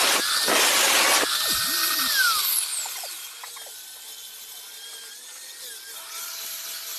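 Rhythmic rasping strokes of a hand tool working saw-blade metal or wood, about one and a half strokes a second, stopping a little over a second in. After that only faint thin whistling tones remain over low background noise.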